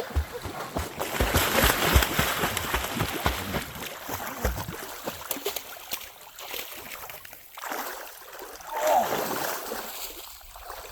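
A dog splashing into lake water and paddling, with water sloshing and splashing. It is loudest over the first few seconds, then settles, with another burst of splashing near the end.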